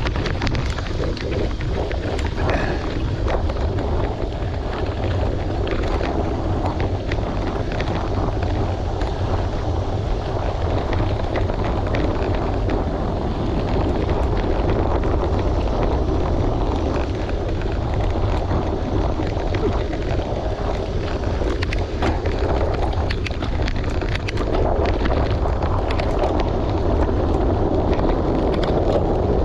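Wind buffeting the microphone while riding a bicycle on a gravel road, a steady rumble with tyres crunching over gravel and frequent small clicks and rattles.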